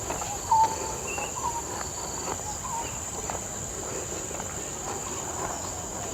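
Outdoor nature ambience: a steady high-pitched insect drone with short bird chirps repeating every half second or so.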